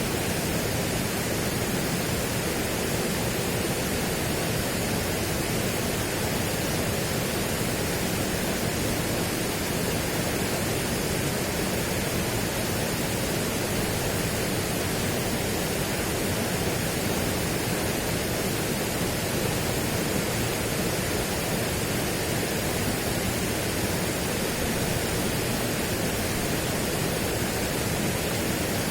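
Steady, unchanging rushing noise spread evenly from low to high pitch, with no distinct events.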